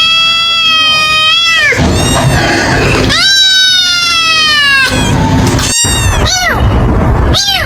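Kitten meowing loudly: two long, drawn-out high meows, the second sliding slightly down in pitch, then short quick meows near the end.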